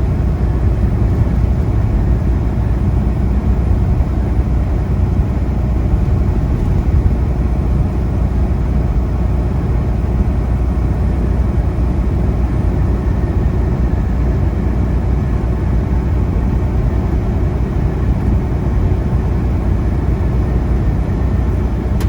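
Semi truck cruising at steady highway speed, its engine and road noise making a constant low rumble heard from inside the cab.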